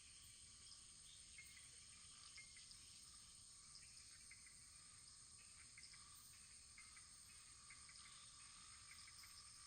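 Wood fire crackling very faintly: a soft steady hiss with many small scattered pops and ticks.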